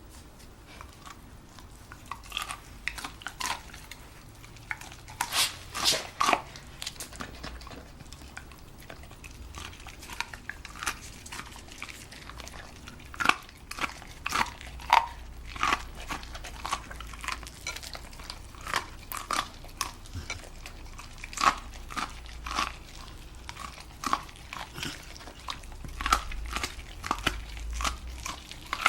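A Scottish terrier chewing and biting a corncob: irregular sharp crunches and cracks of kernels and cob as it gnaws, some in quick clusters, with quieter chewing between.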